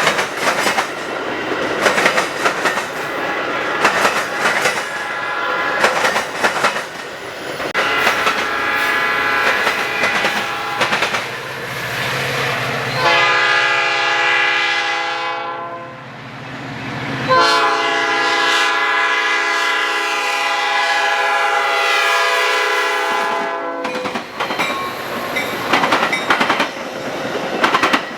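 Train passing with its wheels clicking rapidly over the rail joints. Partway through, a train air horn sounds a long blast, breaks briefly, then sounds a second, longer blast.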